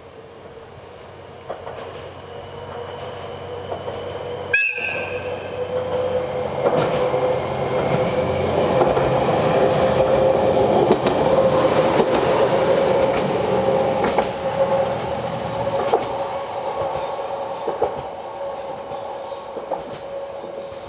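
AN8800 diesel railcar sounds one short horn blast about four and a half seconds in, then approaches and passes close by. Its engine and wheels swell to a peak with a steady droning tone and fade away, with wheel clicks over the rail joints as it goes.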